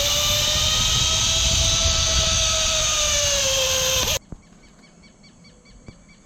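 Zipline trolley pulleys running along a steel cable with a rushing of wind: a steady whine that rises a little in pitch and then falls as the rider slows. It cuts off suddenly about four seconds in, leaving a faint, rapid repeated chirping.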